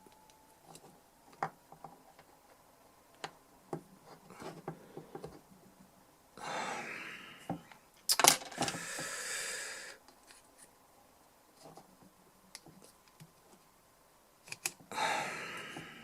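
Small metal tools clicking and tapping against the DI box's metal case and input jack while something stuck inside the jack is probed, with three short hissing bursts.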